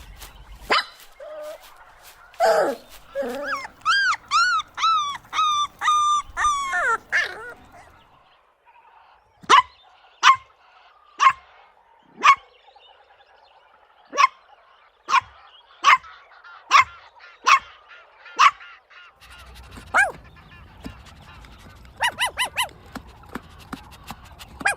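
Puppies yipping and barking: a quick run of high, whiny yelps, then single sharp barks about one a second, then a few quick barks near the end.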